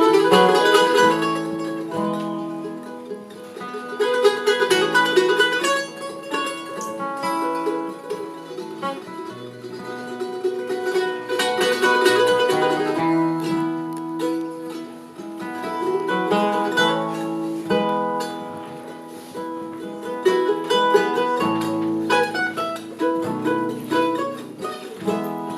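Bluegrass band playing the song's instrumental introduction: acoustic string instruments picked in quick, running notes before the vocals begin.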